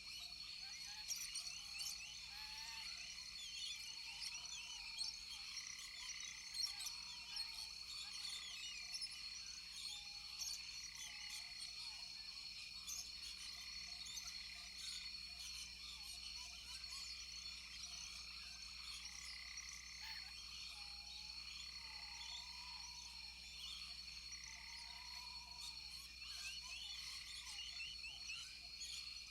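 A rainforest frog chorus: many frogs calling, with short chirps up high and lower arched calls repeating every couple of seconds, over a steady high-pitched whine.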